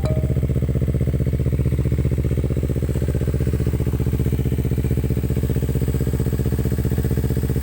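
Kawasaki Ninja 250 FI's parallel-twin engine idling steadily through an aftermarket racing exhaust, with a bassy, even note that holds the same pitch throughout.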